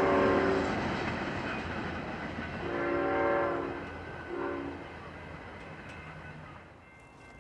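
Amtrak San Joaquin passenger train sounding its multi-note air horn: the end of one blast just as it begins, a long blast about three seconds in, then a short one a second later. Under it runs the rumble of the moving train, which fades away.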